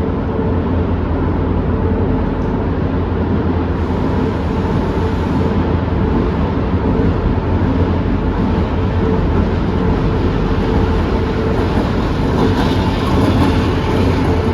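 Train running: a loud, steady rumble with a low hum and a few faint steady tones, the hiss growing briefly brighter near the end.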